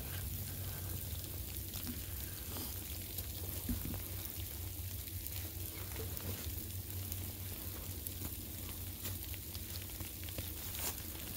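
Light mixed precipitation (rain, sleet and snow) pattering steadily on the leaf litter of a wooded floor: a soft even hiss with many fine irregular ticks, over a low steady rumble.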